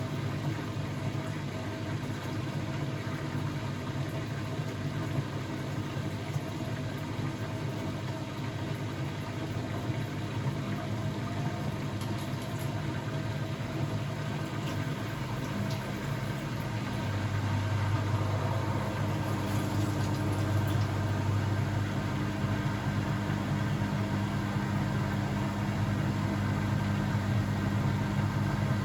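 Blomberg WAF 7442 SL washing machine running mid-cycle with a steady mechanical hum. About 17 seconds in, a deeper hum joins and the sound gets a little louder.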